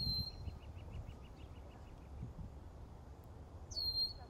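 Two short, high whistled bird calls. Each slides down and then holds briefly on one note: one comes at the start and the second near the end. Under them runs a low, steady outdoor rumble.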